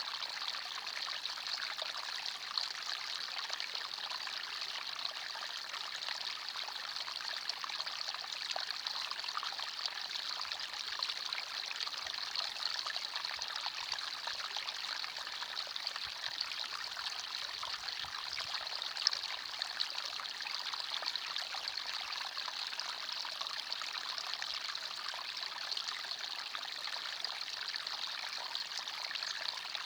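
Small forest stream flowing and trickling steadily, a hissing babble of water with little low rumble.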